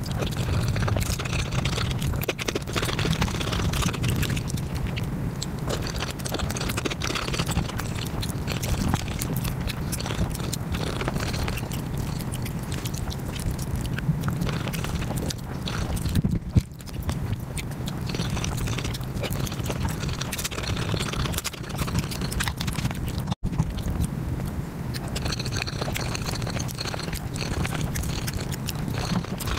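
Close-miked chewing and biting of a person eating biryani and naan, played at five times normal speed so the mouth sounds run together in a fast, dense stream of clicks and crunches. There is a split-second gap a little over two-thirds of the way through.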